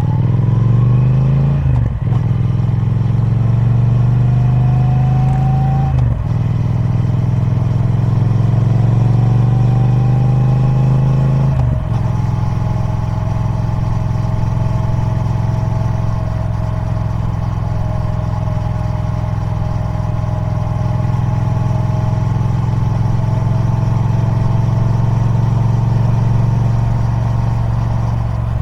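Triumph Speed Twin 1200's parallel-twin engine on its stock exhaust, accelerating through the gears. The note climbs and breaks off at three upshifts, then holds steady at a cruise.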